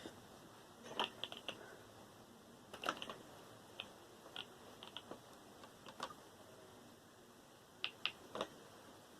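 Scattered sharp clicks and light taps of small hard parts and hand tools being handled while computer components are taken apart for scrap, in clusters about a second in, around three seconds in, and near the end.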